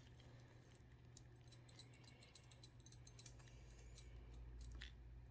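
Faint, scattered light clicks of a stir stick against a cup as the tinted epoxy resin is mixed, over a low steady hum.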